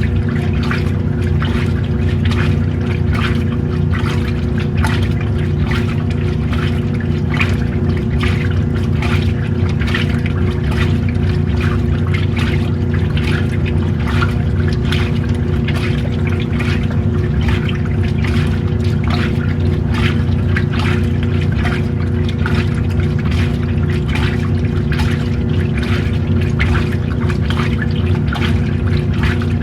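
Washing machine running through a wash: a steady motor hum under water sloshing and churning in the tub.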